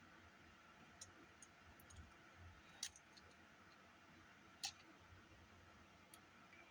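Faint, scattered small clicks and taps from handling small parts and tools on a cassette Walkman during a repair. The two sharpest clicks come about three and four and a half seconds in.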